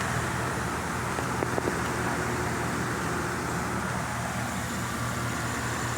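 GMC truck's gasoline engine idling steadily.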